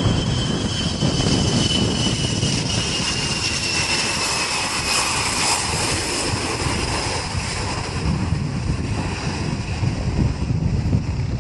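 Jet airliner engines running with a deep rumble and a high turbine whine that slides slowly down in pitch over the first half.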